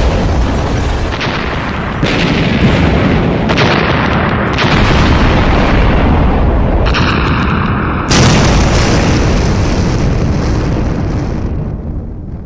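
Explosion sound effects: a run of booms with deep rumble, fresh blasts breaking in about 2, 3.5 and 4.5 s in and again near 7 s. The loudest blast comes about 8 s in, and its rumble fades away near the end.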